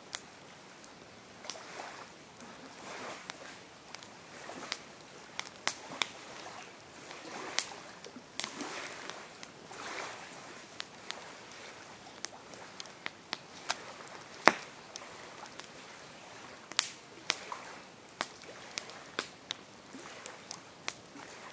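Campfire burning: wood crackling with irregular sharp pops over a soft hiss of flames, one pop about two-thirds of the way through louder than the rest.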